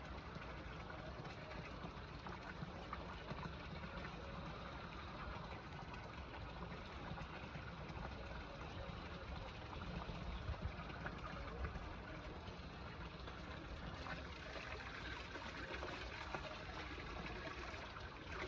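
Steady running water, an even rushing and trickling that holds without a break.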